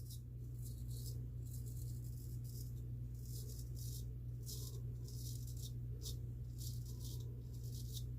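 Straight razor scraping through lathered stubble in short strokes, a crisp rasp every half second or so. A steady low hum runs underneath.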